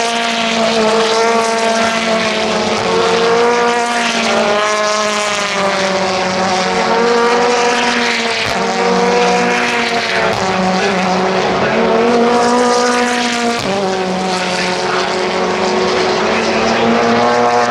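Race car engines at full throttle, the pitch climbing and then dropping sharply at each upshift, about every one and a half to two seconds, with no break in the sound.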